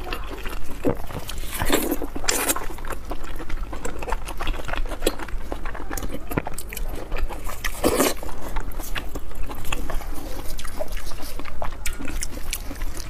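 Close-miked wet chewing and sucking on braised pig intestine and stomach, with sticky squelching clicks and spicy sauce dripping back into the pot. The sound is louder about two seconds in and again around eight seconds.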